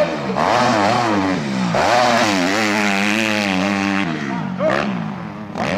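Motocross bike engines revving hard, pitch rising and falling again and again as the riders work the throttle around the track.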